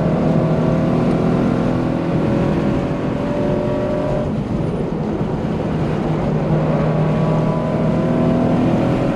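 Subaru BRZ's flat-four engine, breathing through an unequal-length header and a full catless exhaust, heard from inside the cabin. It pulls hard at high revs with the pitch climbing, drops off about 4 seconds in as the driver lifts for a corner, and climbs again on throttle from about 6.5 seconds in.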